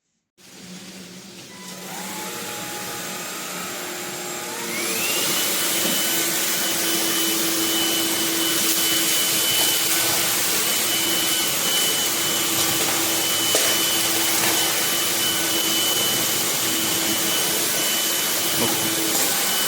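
Cordless stick vacuum with a brushless motor switching on and spinning up in stages: a whine rises to a high pitch about five seconds in. It then runs loud and steady with a high whine over the rush of air.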